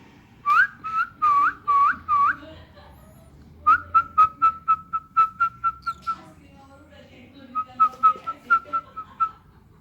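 Whistling: five pitched notes that each hook upward at the end, then two fast runs of short, even notes at about five a second.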